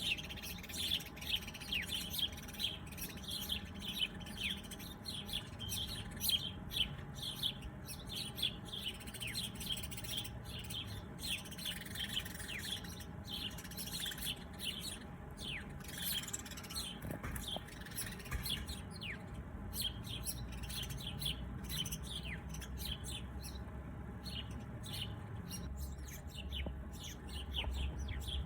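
A chorus of small birds chirping: many short, quick, downward-sliding chirps overlapping, growing a little sparser in the second half. A faint low rumble comes up near the end.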